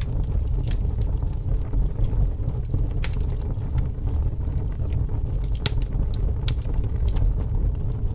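Fire burning with a steady low rumble and scattered sharp crackles and pops, the brightest few seconds apart.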